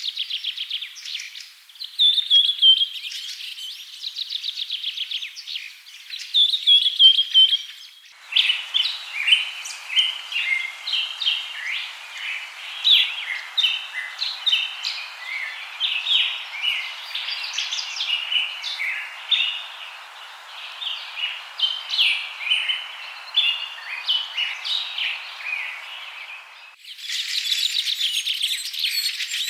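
Wild birds chirping and trilling, with fast repeated notes. About eight seconds in it cuts abruptly to a denser chorus of many birds calling over a steady hiss, and near the end it cuts again to a different bird chorus.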